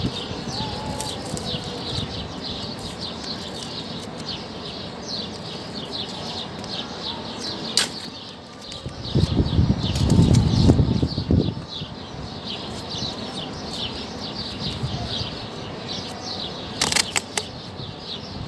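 Small birds chirping continuously in quick, short notes. A louder low rumbling noise comes in for about two seconds around the middle, and there are a few sharp clicks.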